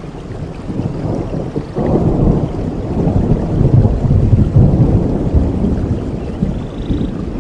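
Rolling thunder over steady rain: a deep rumble builds about two seconds in, peaks in the middle and slowly fades.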